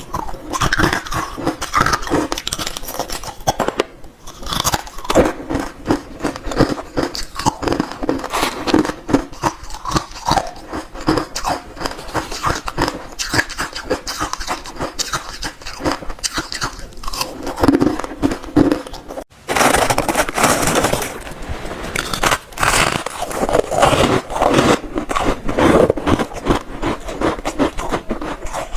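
Ice being bitten and chewed close to the microphone: a dense, irregular run of loud crunches and grinding crackles, with a brief break about 19 seconds in.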